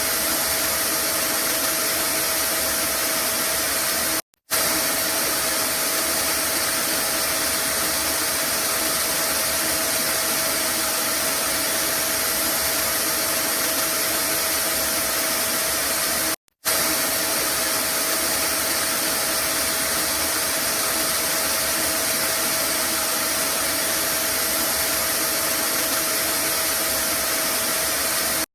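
Vacuum cleaner running steadily, an even loud whoosh with a faint constant hum in it. It cuts out for a split second twice, about 4 and 16 seconds in, where the recording loops.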